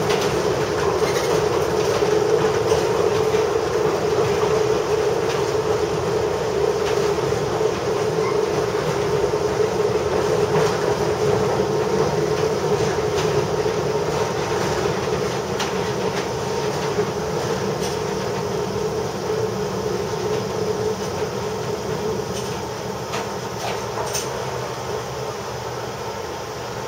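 Kominato Railway diesel railcar running over rough jointed track, heard from the cab: a steady running drone with scattered clicks of the wheels over the rails. The sound grows quieter over the last ten seconds or so as the train slows into the station.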